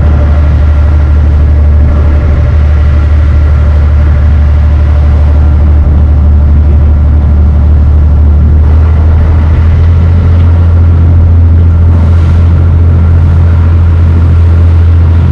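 The barge's inboard engine running steadily under way, a loud, even low hum with faint steady overtones.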